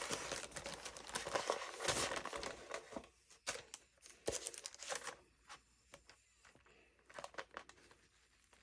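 Rustling and crinkling with scattered clicks and taps as a microwave flower press is opened and its pads and fabric layers are handled; busier for about the first three seconds, then sparse handling noises with short pauses.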